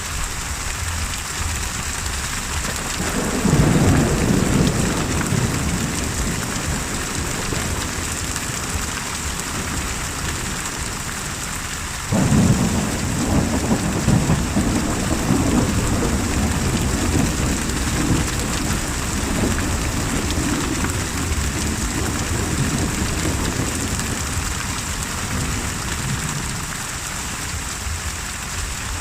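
Steady rain with two rolls of thunder. The first swells a few seconds in and fades within a few seconds. The second breaks suddenly about twelve seconds in and rumbles on, slowly dying away over several seconds.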